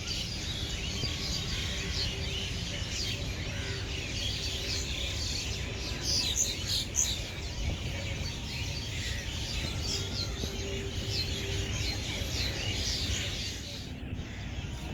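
Many small birds chirping and twittering at once in a dense chorus, with a few louder calls about halfway through, over a steady low rumble.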